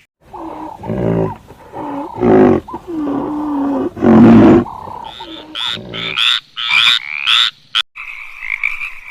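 A run of animal calls: several low, drawn-out pitched calls in the first half, then a quick series of high chirps, then a steady chorus of croaking frogs starting near the end.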